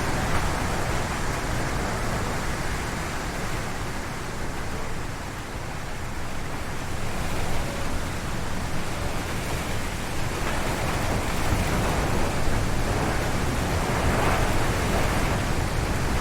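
Strong wind gusting through forest trees, a dense rushing noise. It eases a few seconds in and builds up again in the second half.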